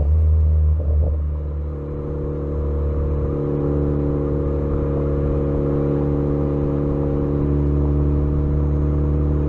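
Ford Focus ST engine heard through intake and exhaust mics: a few overrun crackles in the first second from its crackle tune, then a steady, even engine drone at constant revs.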